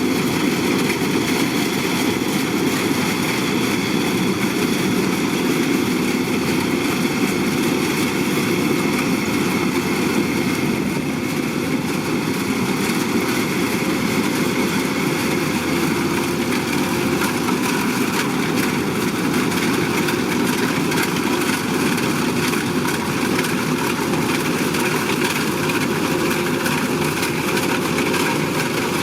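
Kubota DC-105X combine harvester's diesel engine and threshing machinery running steadily at a constant pitch.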